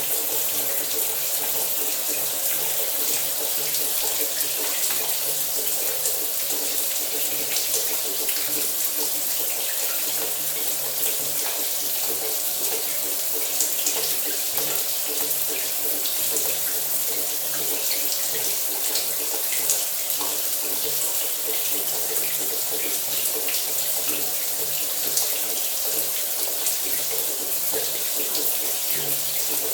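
Shower running steadily: a continuous hiss of water spray falling, with small irregular spatters throughout.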